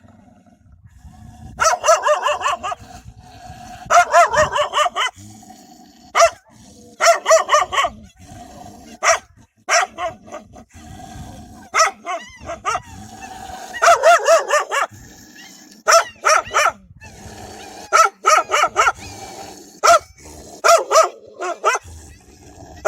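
Dogs barking fiercely in repeated loud volleys of several barks each, coming every second or two, in defence of their puppies.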